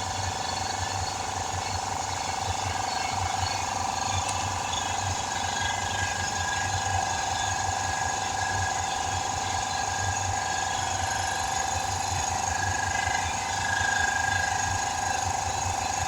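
Portable air compressor running steadily, with a steady high whine over a fast low rattle. The owner thinks its bearings are about gone.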